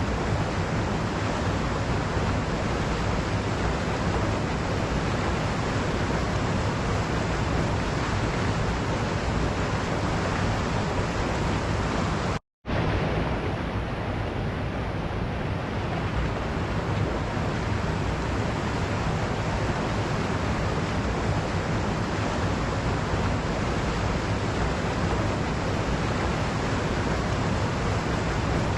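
Waterfall with a steady rush of falling water. It cuts out to silence for a fraction of a second about twelve seconds in, then resumes unchanged.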